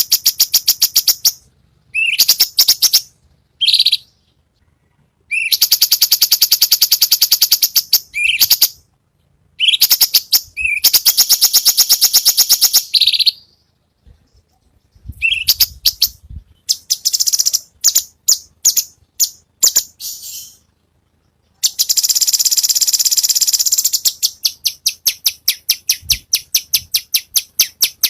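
Cucak cungkok song played as a tutor recording: loud, very rapid high-pitched trills in bursts of one to three seconds with short pauses between them, the harsh rattling 'besetan' delivery prized in songbird contests. Near the end it breaks into a string of evenly spaced single notes, about three a second.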